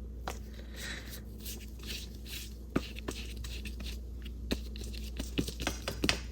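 Paintbrush working acrylic paint onto gesso-primed mixed media paper: soft, scratchy swishes of bristles on paper, with a few light clicks and taps scattered through, over a low steady hum.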